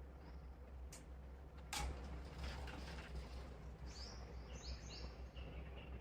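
Small birds chirping: a run of quick falling chirps about four seconds in, then short repeated notes, over a steady low hum. Two sharp clicks come about one and two seconds in, the second one louder.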